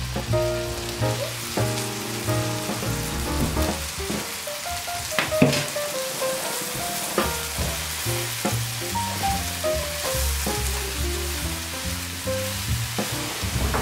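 Enoki mushrooms sizzling in hot butter and oil in a frying pan as they are stirred with wooden chopsticks, with one sharp click about five seconds in. Light background music plays along.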